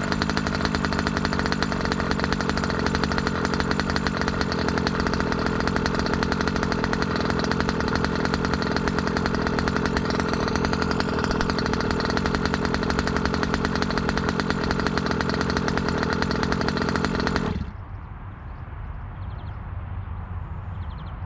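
New ESP two-stroke gas engine for a 1/5-scale RC car running steadily through a break-in heat cycle, then cutting off suddenly about three seconds before the end.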